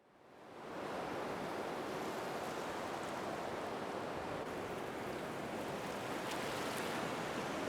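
Steady rushing noise that fades in over the first second and then holds even.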